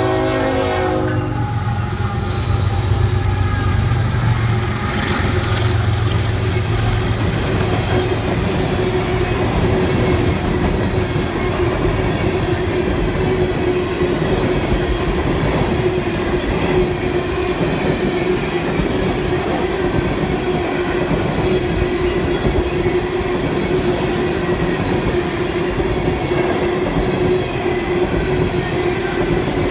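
Freight train passing close by. The diesel locomotives' horn chord cuts off about a second in, and the engines run past over the next few seconds. After that the freight cars roll by with steady wheel clatter and a constant ringing tone.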